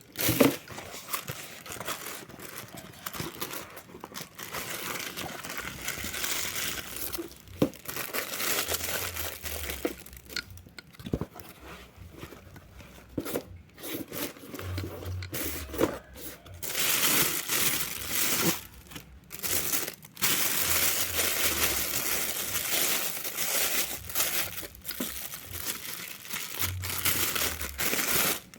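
Packaging being handled and pulled open, crinkling and tearing irregularly, with scattered sharp clicks and brief pauses.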